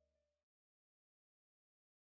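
Near silence: the very faint tail of a fading music track dies out about half a second in, then nothing at all.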